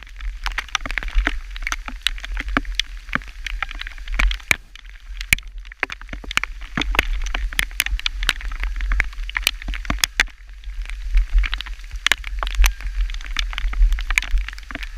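Hailstones pelting down in dense, irregular sharp ticks and clicks, over a steady low rumble.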